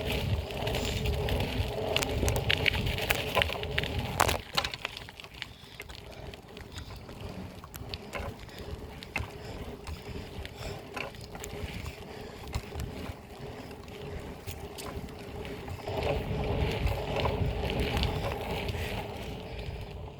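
Noise of a BMX bike being ridden: wind rumbling on the microphone, with road noise and scattered clicks and rattles from the bike. It is louder at the start, drops about four seconds in, and rises again for a few seconds near the end.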